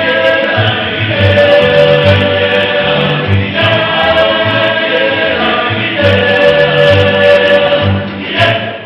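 A choir singing long held chords over low, pulsing bass notes, the chords changing every few seconds before the music drops away near the end.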